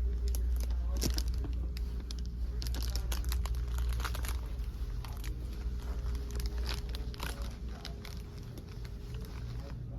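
Irregular crinkling and rustling handling noise, many small crackles, over a steady low hum.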